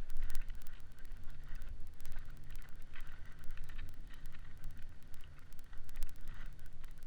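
A snowkiter gliding over crusted snow, a dense, irregular scraping crackle, with a low wind rumble on the microphone.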